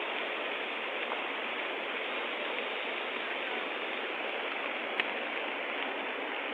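Floodwater of the swollen Sebou River rushing in a steady, even noise, with one sharp click about five seconds in.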